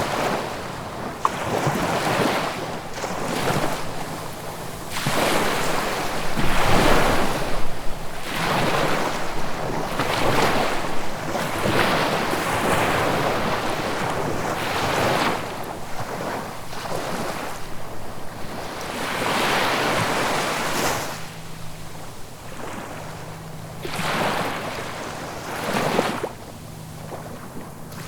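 Ocean waves breaking and washing on the shore, a fresh surge of surf every two to three seconds, easing off in the last few seconds.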